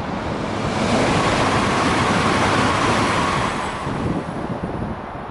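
A train passing close by on the platform: a rushing noise that builds over about a second, holds with a faint steady whine, and fades away near the end.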